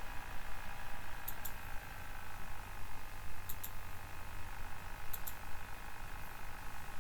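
Computer mouse button double-clicking three times, about two seconds apart, over the steady hum of a running computer.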